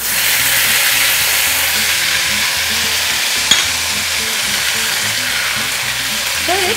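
Diced tomatoes dropped into hot mustard oil in a cast iron kadhai, setting off a loud, steady sizzle that starts the moment they hit the oil. There is one sharp click about three and a half seconds in.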